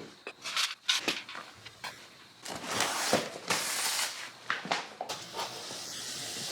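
Irregular clicks, knocks and short scraping noises of objects being handled and set down.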